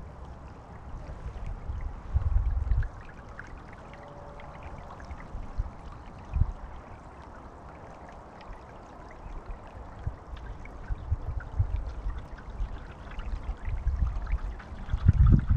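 Water trickling and lapping along a sailing canoe's hull, full of small splashy ticks. Now and then there is a low rumble of wind on the microphone, the loudest near the end.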